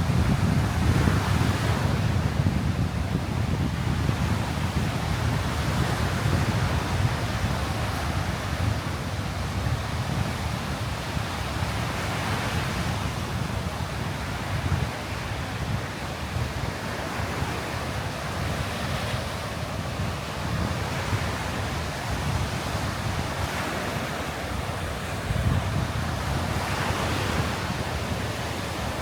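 Surf breaking and washing up a beach, swelling and easing every few seconds, under a steady low rumble of wind buffeting the microphone.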